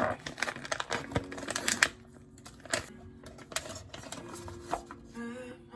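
Typing on a computer keyboard: a quick run of key clicks, densest in the first two seconds and sparser after, over soft background music.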